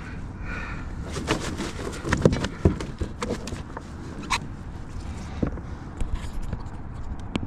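Irregular knocks and clatters on a kayak as a freshly landed flounder is handled on board, most of them in a cluster in the first half, over wind rumbling on the microphone.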